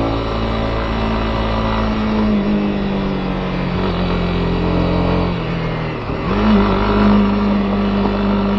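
Honda CB250R's single-cylinder engine running under way, its note steady, then dipping briefly about five and a half seconds in before pulling again, a little louder.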